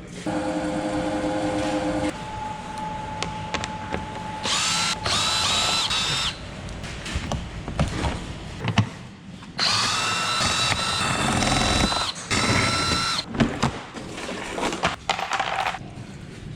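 A handheld power tool's motor runs in several bursts with a high whine, rising in pitch as it spins up at the start of the longer runs, with short metallic clicks and clanks between the runs.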